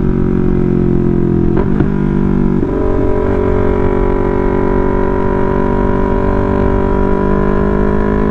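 Yamaha R3's parallel-twin engine and loud exhaust running as a steady drone under way. It breaks briefly about two and a half seconds in, then climbs slowly in pitch as the bike gathers speed.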